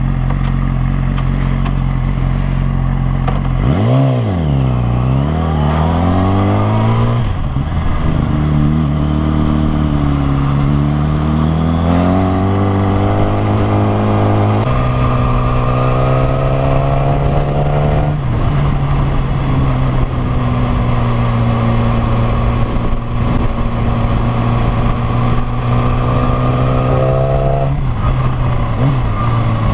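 Yamaha R6's inline-four engine pulling the bike along. Its note dips and climbs a few seconds in, rises steadily, then drops to a lower steady pitch about halfway through, as with a gear change, and holds there with another drop near the end.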